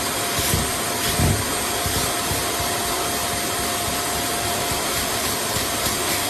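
Vacmaster SCA0801 carpet spot cleaner running steadily, its motor drawing suction with an even rushing noise and a steady whine. A couple of low bumps come in the first second or so.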